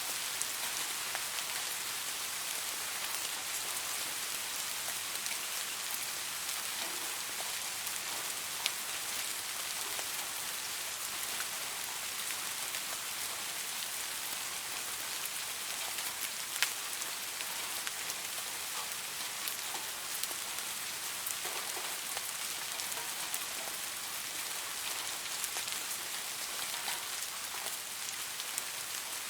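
Steady rain falling on leaves: an even hiss with scattered drop ticks, and a couple of louder single drops about eight and sixteen seconds in.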